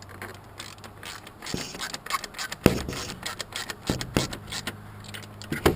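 Hand ratchet wrench clicking in quick runs as a bolt is run down tight, with a couple of sharp metal knocks, about three seconds in and near the end, over a steady low hum.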